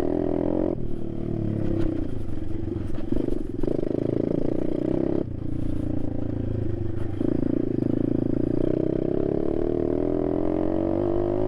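Apollo RFZ 125cc pit bike's single-cylinder engine being ridden, its revs rising and falling, with the revs dropping off suddenly and building again several times.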